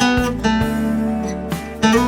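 Acoustic guitar playing an instrumental melody, plucked chords and notes ringing on, with a fresh chord struck at the start and another near the end.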